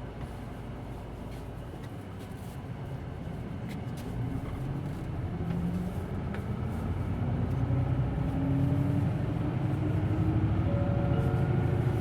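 Hino Blue Ribbon City Hybrid bus pulling away from a stop, heard from inside the cabin: its diesel-electric hybrid drivetrain rising in pitch and growing steadily louder as the bus accelerates.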